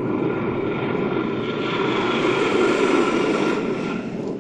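Boeing C-17 Globemaster III's four turbofan engines at maximum takeoff power: a loud, steady jet rumble with faint whining tones. It swells slightly, then begins to fade near the end.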